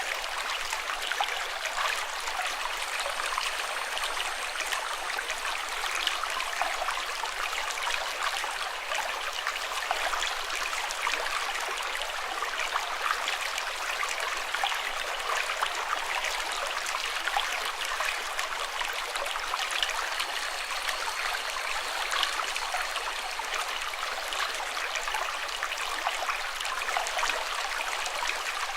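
Water flowing steadily, like a stream: an even rush with many small splashes, unchanging throughout.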